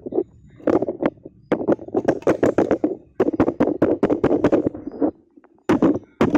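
A hammer striking a frozen block of ice again and again to chip out the hard frozen slime inside. The blows come several a second in three quick runs, with short pauses between them.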